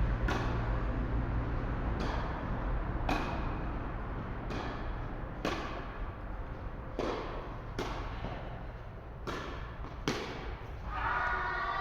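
Tennis balls being struck during a rally: a string of sharp pops roughly a second or so apart. Near the end a wavering siren-like tone starts up.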